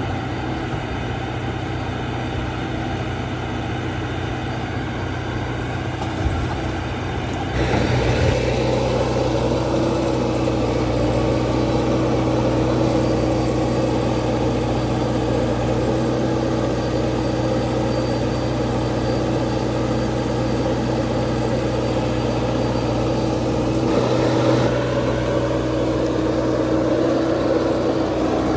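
JCB 3DX backhoe loader's diesel engine running steadily. It revs up about seven seconds in and stays working at higher revs, easing back slightly near the end.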